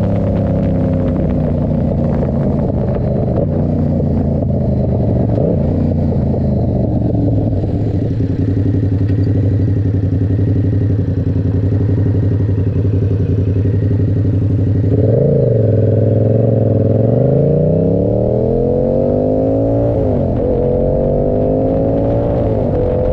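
Yamaha R7's parallel-twin engine through an SC Project exhaust. The revs fall at first and then hold steady for a long stretch. About fifteen seconds in there is a quick blip, then the engine revs up, breaks briefly near twenty seconds as it shifts, and climbs again.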